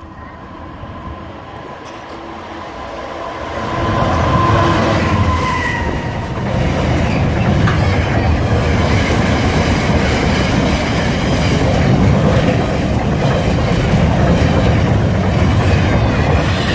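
Freightliner Class 66 diesel locomotive, a two-stroke V12, approaching and passing close by, getting louder over the first few seconds. A long rake of loaded container wagons follows, rumbling and clattering steadily over the rails.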